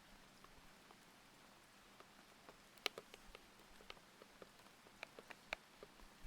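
Single keys pressed one at a time on a thocky linear mechanical keyboard with Aqua King switches: faint, irregular clacks beginning about two and a half seconds in, the loudest just before three seconds. Under them runs a faint, steady layer of rain.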